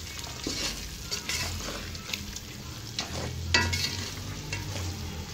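Shredded beef and spice powder sizzling in hot oil in a metal pot while a spatula stirs them through, its strokes scraping against the pot about once a second.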